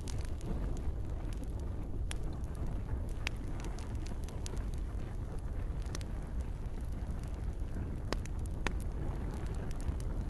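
Campfire crackling: a handful of sharp, scattered pops over a steady low rumble and hiss.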